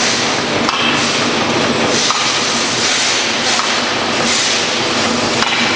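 Loud, steady forge-shop machinery noise with a strong hiss and a few faint knocks.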